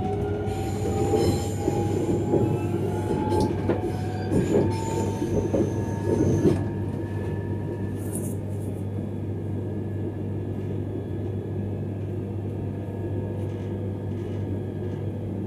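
X31 electric multiple-unit train running along the track, heard from inside its rear cab: a steady rumble with a whine that rises slowly in pitch. For the first six seconds or so the wheels knock and clatter over rail joints and switches, then the run settles and steadies.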